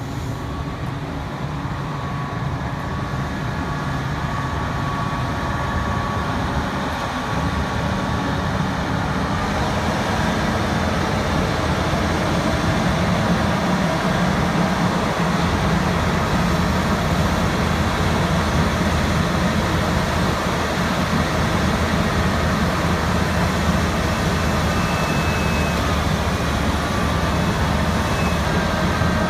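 Large diesel engine of heavy machinery running steadily at a low, even pitch, growing gradually louder over the first ten seconds or so, then holding level.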